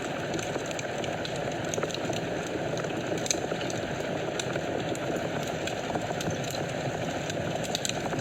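Wood fire burning in a fireplace: a steady rush of flames with frequent small crackles and pops, a few sharper pops about three seconds in and near the end.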